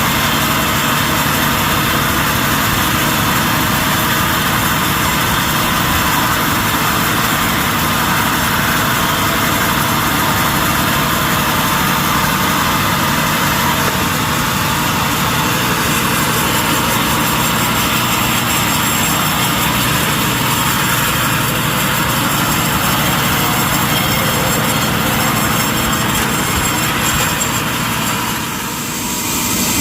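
Industrial sawmill machinery running steadily, a loud continuous mechanical din that dips briefly near the end.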